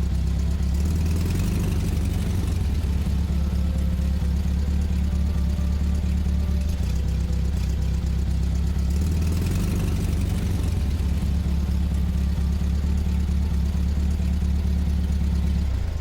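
A large vehicle engine running steadily at an even, low pitch.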